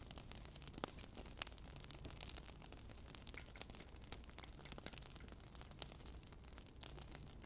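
Burning firewood crackling: scattered, irregular sharp pops and snaps of varying loudness over a faint steady low hum.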